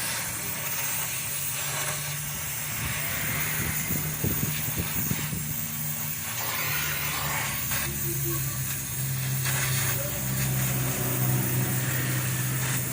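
Vehicle engine running steadily with a constant hum under a hiss of road and wind noise.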